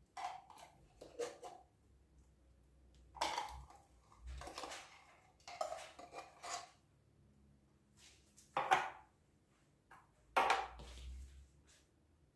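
Metal spoon scraping and clinking against a tin of caramel and a mixing bowl as the thick caramel is spooned out. It comes as a series of short scrapes and knocks, the sharpest near the end.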